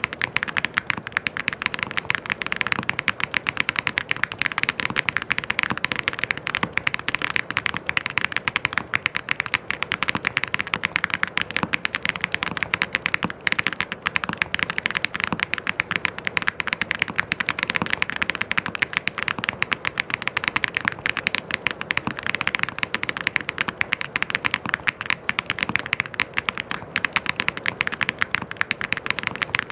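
Mechanical keyboard being typed on fast and without pause, a dense stream of key clicks and clacks.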